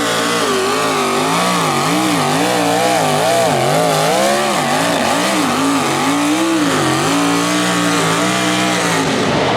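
Pulling tractor's carbureted, naturally aspirated engine at high revs under load during a pull. Its pitch wavers up and down about twice a second, then holds steady, and falls away near the end as the driver lets off the throttle.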